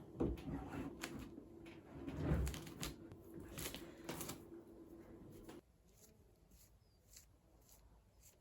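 Household objects being handled: a run of knocks, clacks and rustling over a steady low hum. About five and a half seconds in, the hum and handling cut off suddenly, leaving only a few faint ticks.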